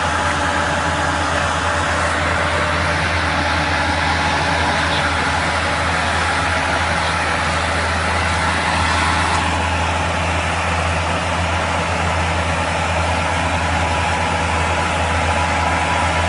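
A vehicle engine running steadily at a constant pitch, with no revving, under a continuous hiss.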